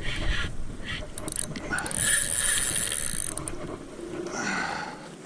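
Fishing reel clicking and whirring under load from a hooked bull redfish, growing louder and higher for about a second, around two seconds in.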